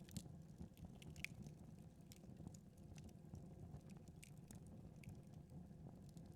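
Wood fire crackling faintly in a fireplace: scattered small pops and snaps at irregular moments over a low steady hum.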